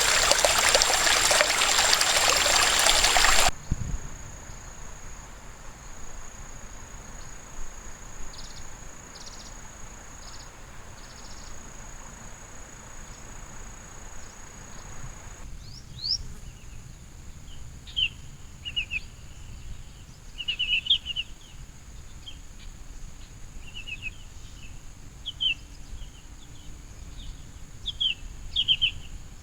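A rushing mountain stream cuts off abruptly a few seconds in, leaving a quieter outdoor ambience with a steady high insect drone and a few short chirps. About halfway through, small birds begin chirping in short repeated calls.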